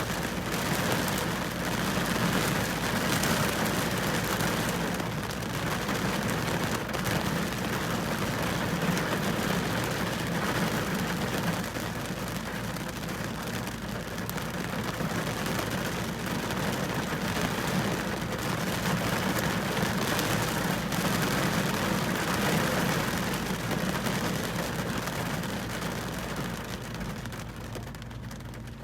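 Steady rain falling, a dense even hiss that eases off slightly near the end.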